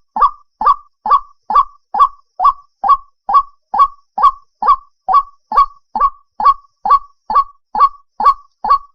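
White-breasted waterhen call: a short honking note repeated evenly about twice a second. It is a recorded call of the kind played as a lure for trapping the birds at night.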